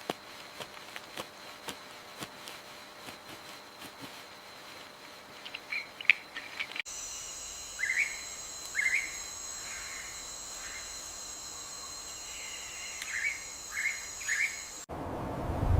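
Wild birds giving short chirping calls, with scattered clicks in the first part. After a cut about seven seconds in, a steady high insect drone runs beneath repeated short chirps, which come in two pairs of bursts.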